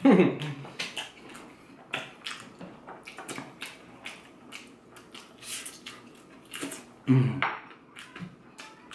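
Close-up eating sounds: chewing and lip-smacking with many short wet clicks. Two brief voice sounds come at the start and again about seven seconds in.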